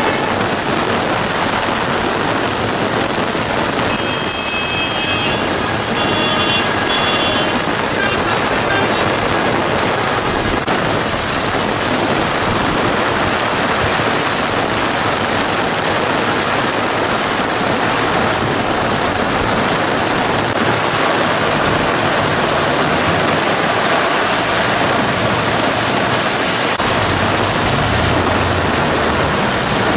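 Heavy thunderstorm rain pouring down in a steady, dense hiss. A brief high-pitched tone sounds about five seconds in, and a low hum joins in the second half.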